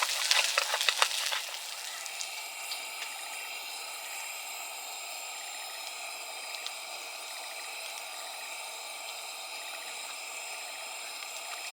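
Meat sizzling on a grill plate: sharp spattering crackles for about the first second and a half, then a quieter, steady sizzling hiss.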